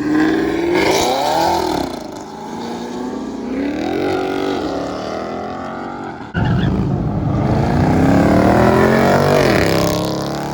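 Car engines revving hard as cars accelerate away, the pitch climbing in several rising pulls. About six seconds in a louder engine cuts in suddenly and winds up again.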